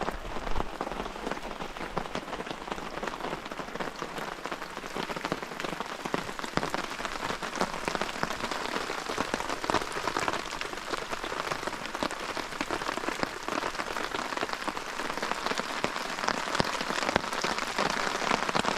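Heavy rain falling steadily: a dense patter of many individual drops over an even hiss of rainfall.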